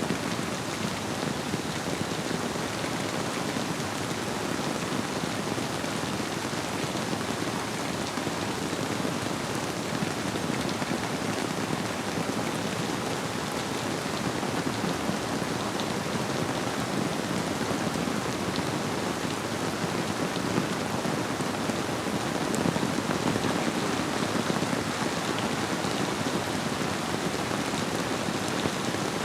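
Steady rain falling as a dense, even patter, with a river flowing beneath it.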